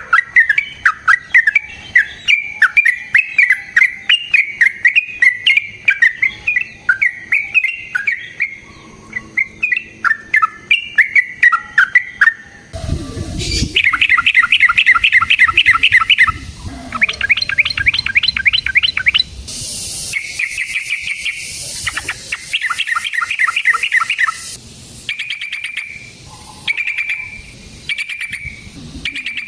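Yellow-vented bulbul (trucukan) singing: a string of quick, bubbly chattering notes. About halfway through, after a brief low rumble, the bird breaks into several long, fast rolling trills. Short separate calls follow near the end.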